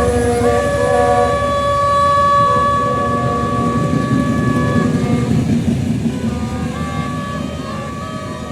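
General Electric diesel locomotive's air horn sounding one long chord for about five seconds, then a shorter, fainter blast near the end, over the rumble of the train running past. The whole sound slowly fades as the train moves away.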